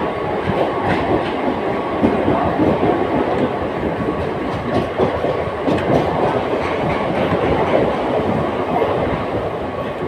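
Mumbai suburban EMU local train running at speed, heard from inside a non-AC coach: a steady noise of wheels on the rails and the moving coach, with a faint steady high tone running through it.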